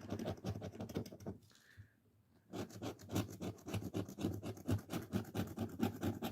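Scratch-off lottery ticket being scratched, a rapid scraping of the coating. The scratching stops for about a second near the start and then resumes.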